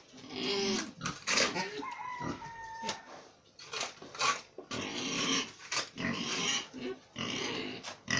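Pigs grunting and calling in a pen, one call drawn out high near the start, with a few sharp knocks among them.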